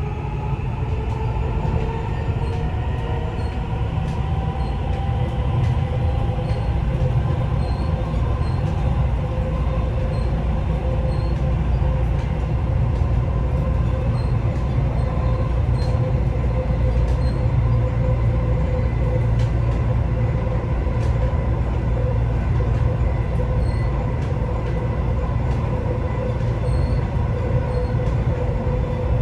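Dubai Metro train heard from inside the car while running between stations: a steady rumble with a constant whine from the drive.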